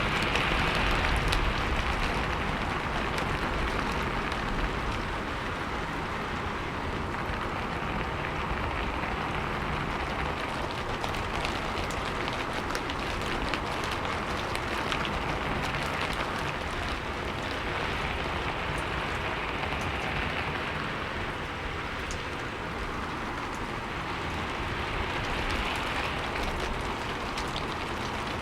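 Steady rain falling, with many individual drops ticking over a continuous hiss that swells a little now and then.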